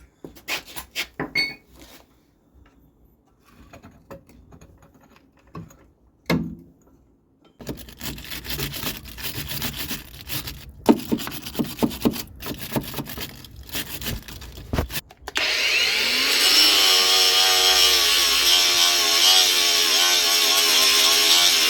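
Hand tools knocking and clicking against the car's suspension, then scraping. About fifteen seconds in, an electric power tool starts up with a short rising whine and runs steadily and loudly, working on the rusted, seized shock absorber bolt.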